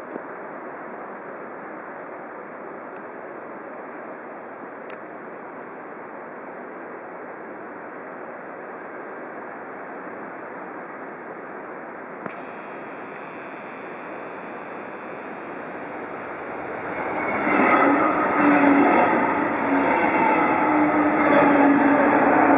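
Steady station noise, then from about 17 seconds in a Bombardier double-deck train pulls in and gets much louder. Its running gear sets up a steady hum, and a thin high squeal comes from the wheels or brakes near the end.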